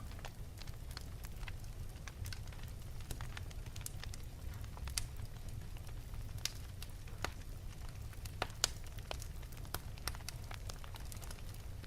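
Wood fire burning in an open fireplace: a steady low rumble of the flames with irregular sharp crackles and pops, a few of them louder, about five, six and a half, and eight and a half seconds in.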